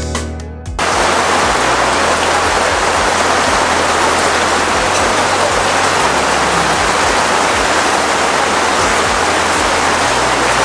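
Hard rain pouring down, a loud steady hiss that starts abruptly just under a second in, as background music ends.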